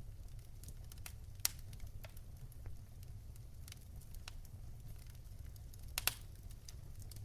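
Wood fire crackling in a fireplace: a steady low rumble of flame under scattered sharp pops and snaps. The loudest pop comes about a second and a half in, and a quick double pop near the end.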